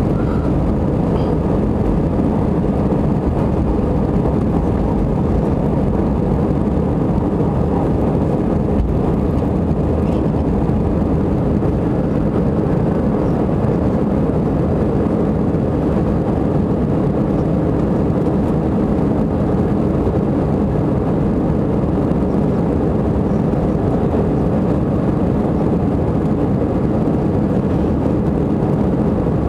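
Airliner's jet engines running, a loud, steady noise with most of its weight low down and no clear rise or fall.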